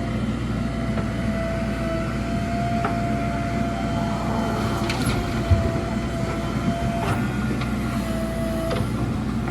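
JCB 3DX backhoe loader's diesel engine running steadily under work, with a high whine that wavers and a single low thump about halfway through.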